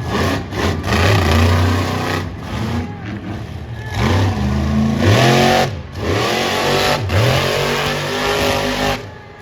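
Monster truck engine, a supercharged alcohol-fuelled motor, revving up and down several times, with the biggest swoops about four to five seconds in and again about seven seconds in.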